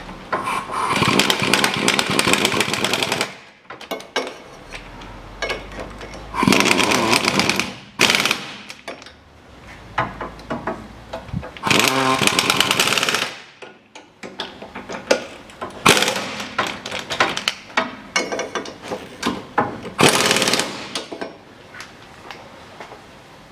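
Impact wrench hammering the rear hub assembly's mounting bolts tight, in about five bursts of one to three seconds each with short pauses between.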